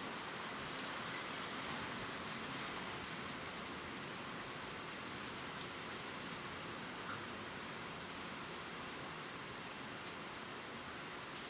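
Steady gentle rain pattering on leaves, an even hiss with small scattered drop ticks.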